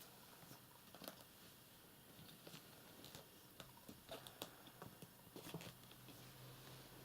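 Near silence with faint, scattered small ticks and rustles of kittens moving about, and a faint low hum from about four seconds in.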